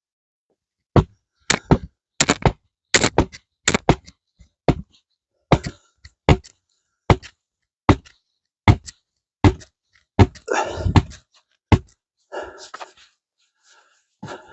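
A hand-held rock pounding a pointed wooden stake into the ground: about twenty sharp knocks at an uneven pace, ending about twelve seconds in, with some scuffing and rustling among the last strikes.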